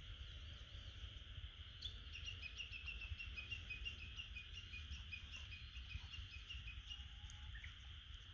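A bird calling a fast run of short chirps, about five a second, starting about two seconds in and lasting some five seconds, drifting slightly down in pitch. Underneath is a steady high hiss and a low rumble of wind.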